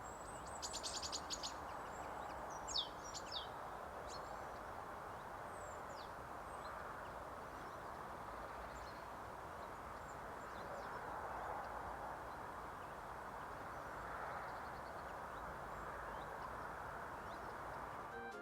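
Wild songbird calling: a quick high chattering run about half a second in, then two or three sharp high call notes near three seconds, with fainter calls later, over a steady outdoor hiss.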